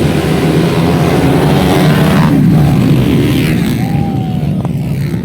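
Underbone motorcycle engines revving hard in a race, the pitch wavering as they go, easing off about halfway through.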